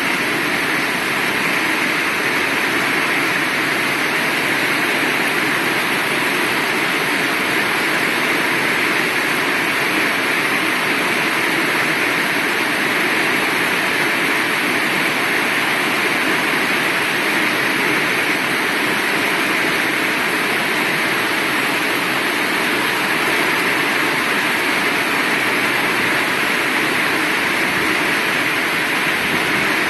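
Heavy rain falling, a steady dense hiss that holds even throughout.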